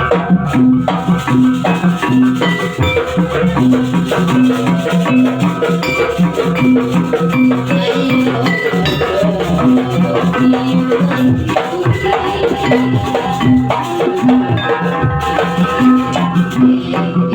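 Banyuwangi barong accompaniment music: rhythmic drums and rattling percussion over a steadily repeating pitched pattern.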